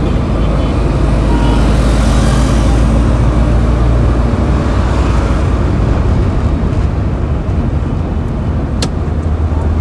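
Road traffic noise: a steady, loud low rumble of engines and tyres, swelling about two seconds in as a vehicle goes by. A single sharp click near the end.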